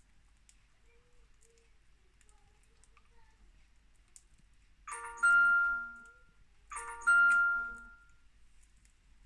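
A chime sounding twice, about two seconds apart: each time a cluster of ringing tones that fades out over about a second.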